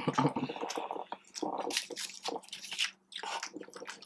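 Close-miked chewing of fried food, breaded boneless chicken wings and fries: irregular crunches, bites and wet mouth sounds. A faint steady hum runs underneath.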